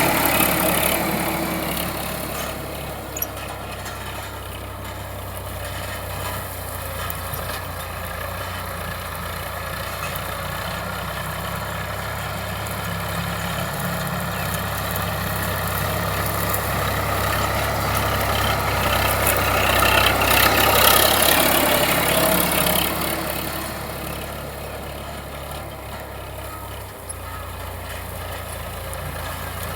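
Diesel tractor engine running steadily with a low hum, getting louder about twenty seconds in, then easing back down.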